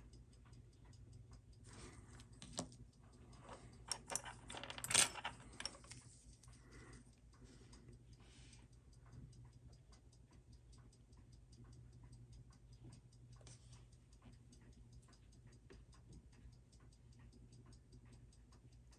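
Steady fast ticking of a mechanical timepiece, about five to six ticks a second, with a cluster of small clicks and taps of handling between about two and six seconds in.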